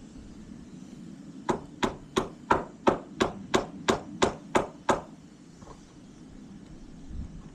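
Eleven evenly spaced hammer blows, about three a second, starting about a second and a half in and stopping abruptly.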